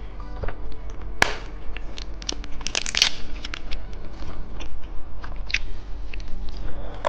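Crunching and crackling of candy snacks being eaten, a string of short crisp cracks that grows denser and loudest about three seconds in. Music plays underneath.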